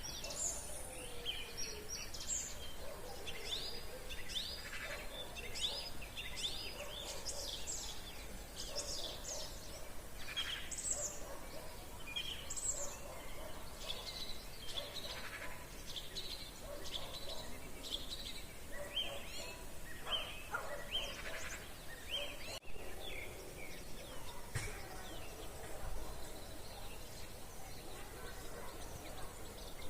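Evening chorus of many songbirds singing at once, with overlapping short chirps and quick falling whistles.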